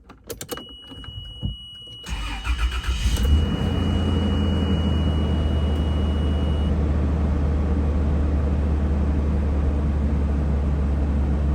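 Cold start of a 1994 Toyota Land Cruiser FZJ80's 4.5-litre straight-six: a few clicks, then the starter cranks for about a second and the engine catches at once, settling into a steady idle. A steady high electronic tone sounds from about half a second in and stops a few seconds after the engine is running.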